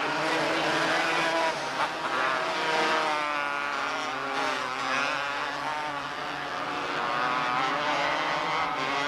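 Several small open-wheel race cars running together on a dirt track, their engines overlapping and rising and falling in pitch as they accelerate, lift and pass.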